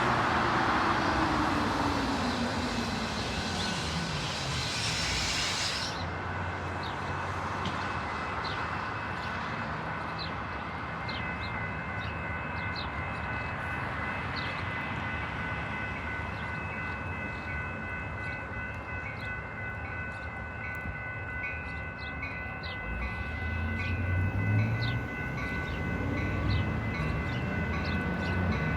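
A Metra commuter train running past, its engine note falling in pitch as it goes. After an abrupt change about six seconds in, a steady ringing of several high tones continues, and a train rumbles in closer near the end.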